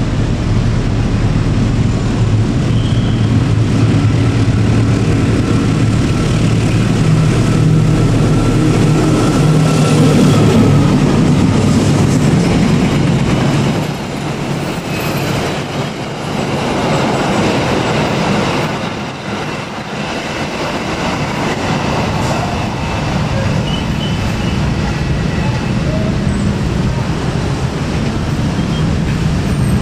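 Diesel locomotive of an Indonesian passenger train passing close with a steady low engine drone. About fourteen seconds in the drone gives way to the rushing rumble of the passenger coaches rolling past on the rails.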